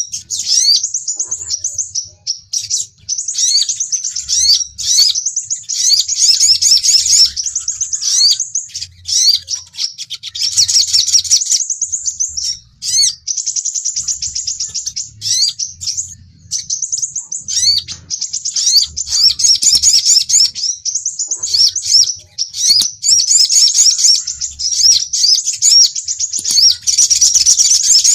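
Sunbird lure calls of the crimson sunbird (sepah raja) and the sogon: rapid, high-pitched chirping and trilling in dense runs, broken by a few short pauses.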